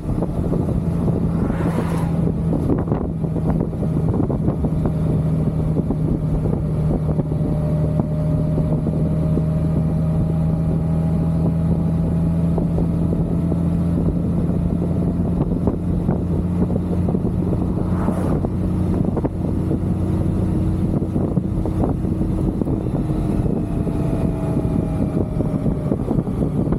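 Motorcycle engine running at a steady cruising speed, its hum holding an even pitch, with wind noise on the microphone.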